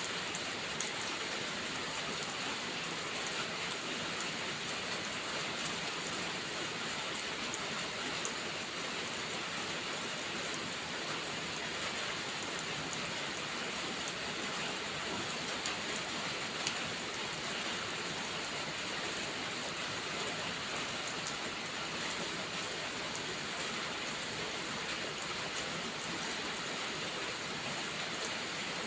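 Steady rain falling: an even hiss, with a few brief sharp ticks scattered through it.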